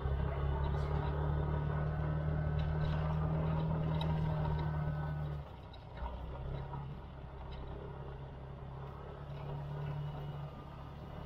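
Motor scooter engine running steadily under throttle, easing off briefly about five and a half seconds in, then running on more quietly.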